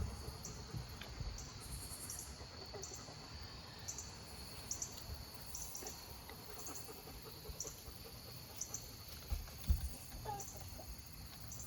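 Evening insects chirping, short high chirps about one or two a second over a steady high drone. A soft, low call from the roosting chickens comes about ten seconds in.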